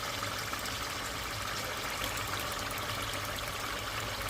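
Pot of blended tomato and pepper sauce frying in palm oil, a steady sizzle with a fine crackle.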